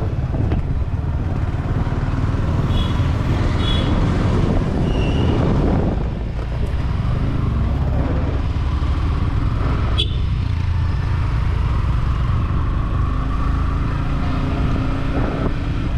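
Yamaha R15 V4's 155 cc single-cylinder engine running steadily under way, with road and wind noise. A few short high beeps come about three to four seconds in, and there is a sharp click near ten seconds.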